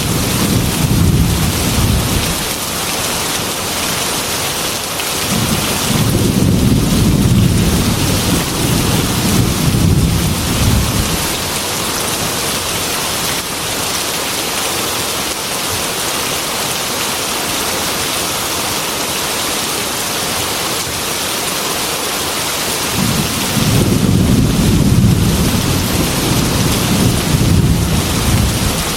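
Steady heavy rain against a glass window, with rolls of low thunder three times: one dying away in the first couple of seconds, a longer one about six seconds in lasting around five seconds, and a third near the end.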